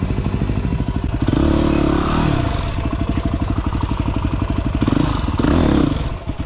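Single-cylinder dirt bike engine running at low revs, with two brief throttle surges: one about a second in and another near the end.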